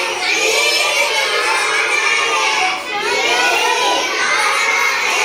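Several children's voices singing and shouting over one another.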